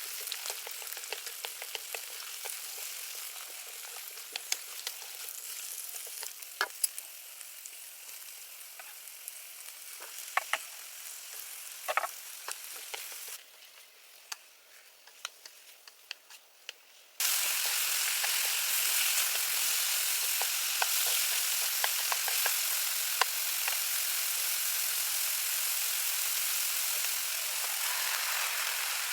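Food frying in hot oil, a steady sizzle with scattered sharp pops and crackles. About halfway through it drops to a faint hiss for a few seconds, then comes back suddenly much louder.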